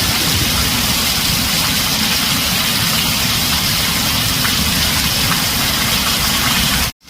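Heavy rain drumming steadily on a tin roof: an even hiss with a low rumble beneath and faint scattered drop ticks. It cuts out for an instant near the end.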